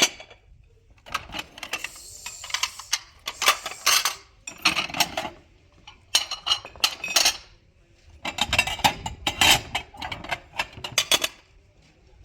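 Hard objects clattering and clinking in several separate bursts.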